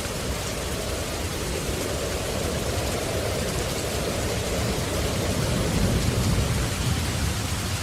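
Steady rushing noise of a nature-sound ambience, with a low rumble that swells about five to six seconds in and eases near the end.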